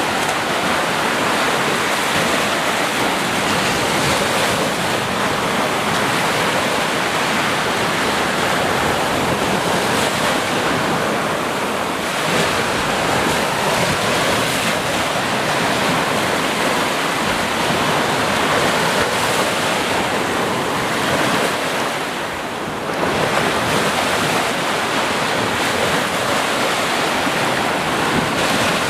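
Sea waves breaking and washing on the shore as a steady, dense rush, with a brief lull about three quarters of the way through.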